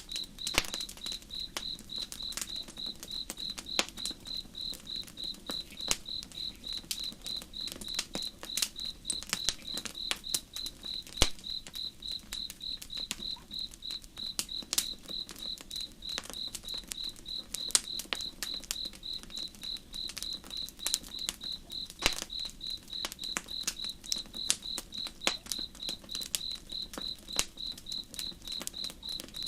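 A cricket chirping in a fast, even rhythm of about three to four chirps a second, over a campfire crackling and popping, with a few sharper pops standing out.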